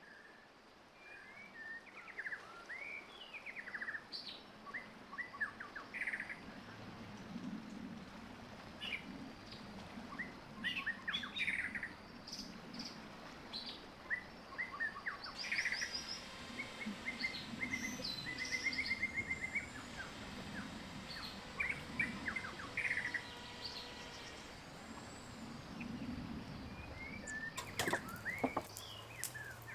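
Several small birds chirping and singing, with many short calls, trills and rising-and-falling whistles overlapping. A few sharp clicks come near the end.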